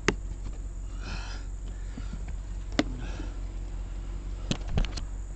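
A few sharp clicks and knocks, one near the start, one in the middle and a quick cluster of three near the end, over a steady low hum.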